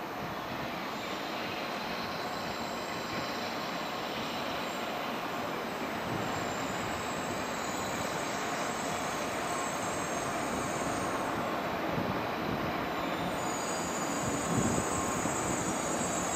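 Shinkansen train pulling slowly into the station under braking: a steady rush of running noise that grows a little louder, with a thin high squeal coming and going and strongest near the end.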